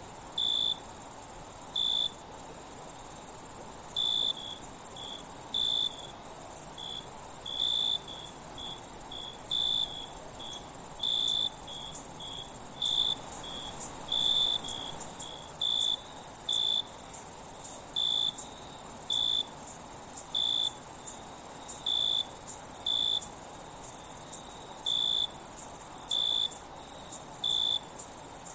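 Night insect chorus: a steady, very high-pitched drone of insects, with a cricket's short chirps repeating about once or twice a second in an uneven rhythm over it.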